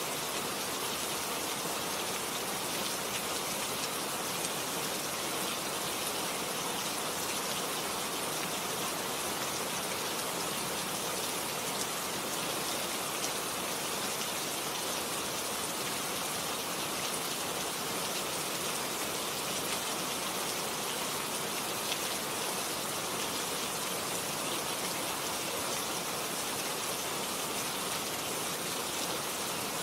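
Steady rain falling, an even hiss of countless drops pattering on a surface.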